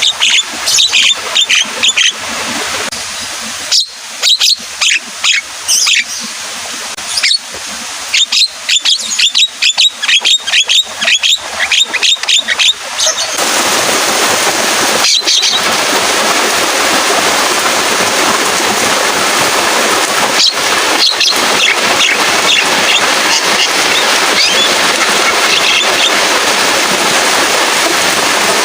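Javan myna chattering in quick runs of sharp, shrill calls. About halfway through, a steady downpour of rain sets in and drowns most of it, with a few calls still heard over the rain.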